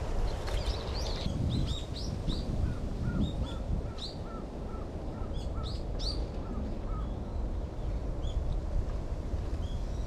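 Small birds calling: a run of short, evenly repeated call notes, about two a second, which stops near the middle. Higher thin chirps sound over them. A steady low background hiss runs underneath.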